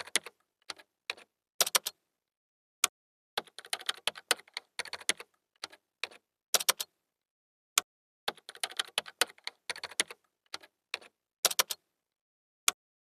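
Rapid runs of typing keystrokes, clicking in three bursts of a few seconds each. Each burst is followed about a second later by a single sharper key strike.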